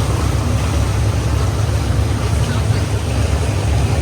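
Steady low rumble with an even rushing noise over it, from a sightseeing boat under way on the fjord.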